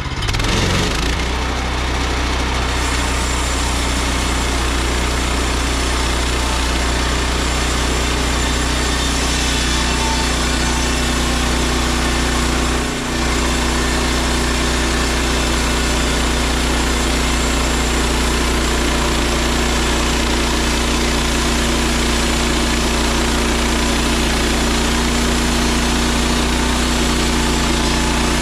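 Small gasoline engine of a portable band sawmill running steadily, with a brief dip in loudness about 13 seconds in.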